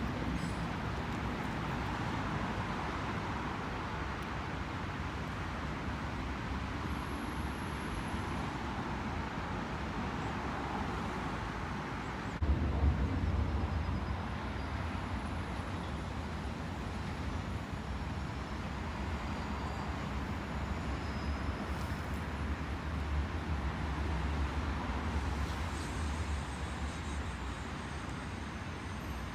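A train moving past at trackside, heard as a steady rumble and hiss. A deeper low rumble sets in suddenly about twelve seconds in and fades near the end.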